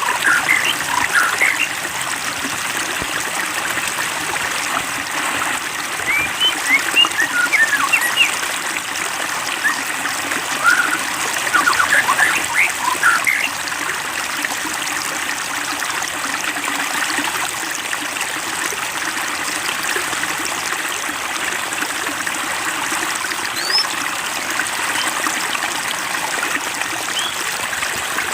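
Water trickling and splashing steadily, with two clusters of short high rising chirps, around six to eight and eleven to thirteen seconds in.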